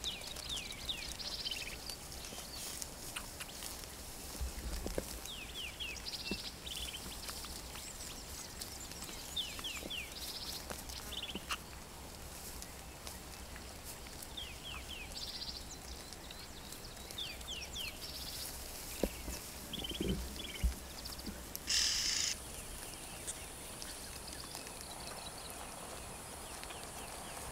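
Birds calling in the African bush: short runs of quick, high, downward-sliding chirps every second or two. About three-quarters through, a brief hissy burst, and a steady high buzz starts.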